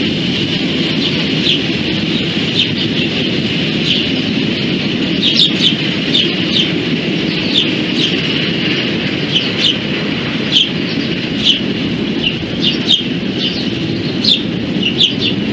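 Steady low rumble of a train rolling past, with birds chirping repeatedly over it, short chirps roughly once a second that come more often from about five seconds in.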